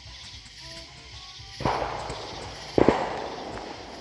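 Two fireworks going off about a second apart, the second louder, each bang trailing off over about a second.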